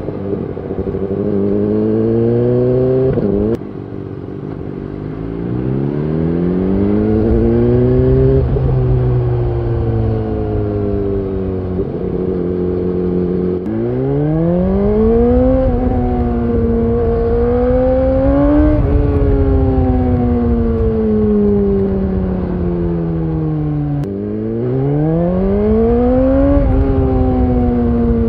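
The BMW S1000RR's inline-four exhaust note while riding, heard from on the bike. Its pitch climbs in repeated runs under acceleration, drops sharply at the gear changes, and falls away slowly when the throttle is eased off.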